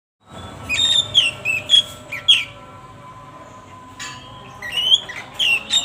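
Lovebird singing with mimicked oriental magpie-robin (kacer) phrases: quick chirps and whistled sweeps in two bursts with a short pause between.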